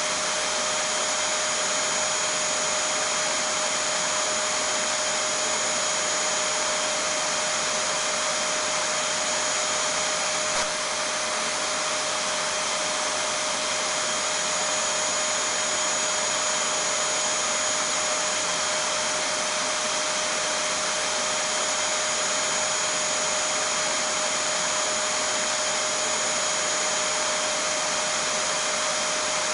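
Vacuum cleaner motor running steadily: an even rushing noise with a constant high whine over it, and a brief small dip in level about ten seconds in.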